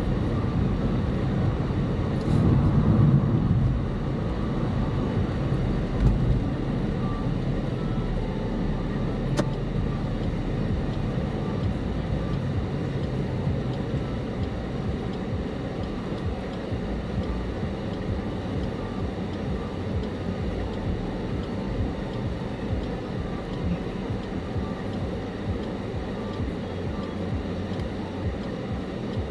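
Engine and road noise from inside a moving car, a steady low rumble with a brief swell a few seconds in. A faint, evenly repeating tick sounds through much of it.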